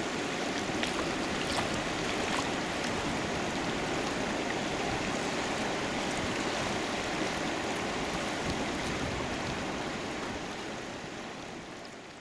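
River water flowing steadily, a continuous rushing hiss that fades out near the end.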